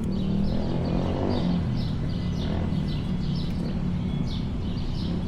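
Steady low rumble of riding on an electric scooter, heard on a chest-mounted camera mic, with short high bird chirps repeating several times a second.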